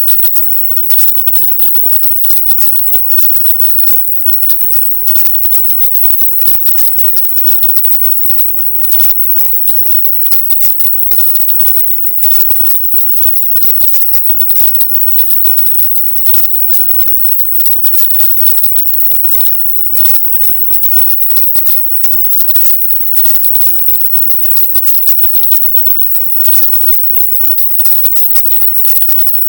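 Steady high-pitched hiss, strongest in the highest treble, broken by constant brief dropouts that give it a crackling, scratchy texture: a "silent subliminal" track, with its content shifted up to the top of the audible range.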